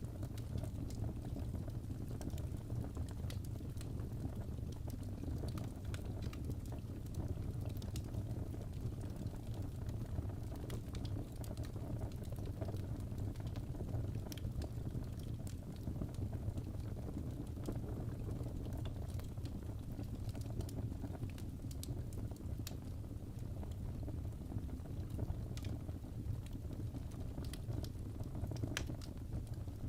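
Crackling fireplace: a steady low rumble of the burning fire with scattered sharp pops and crackles throughout.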